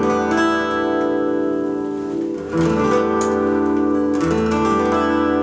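Acoustic guitar chords strummed and left to ring, a new chord struck about two and a half seconds in and another a couple of seconds later.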